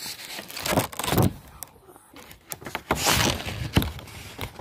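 Rustling and bumping handling noise with two louder swells, about a second and three seconds in, and a few light knocks.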